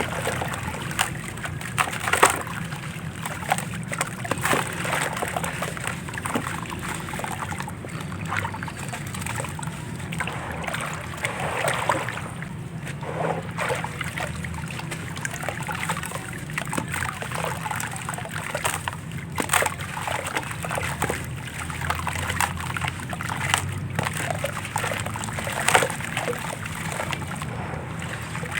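A handmade gritty, crumbly block being dipped in water and crumbled: wet splashing and sloshing with many small crackles and crunches and a few sharper snaps.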